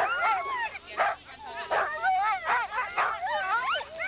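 Many sled dogs yelping and howling together: dense, overlapping calls that rise and fall in pitch, with barks between them.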